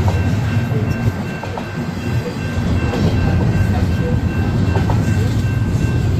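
Union Pacific intermodal freight train rolling past with a steady low rumble and scattered wheel clicks on the rail joints. A faint steady high tone rides over it.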